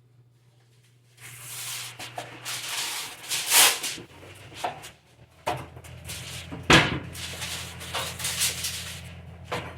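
Kitchen handling noises: a run of rustling and scraping with several sharp knocks, the loudest about two-thirds of the way through, over a low steady hum.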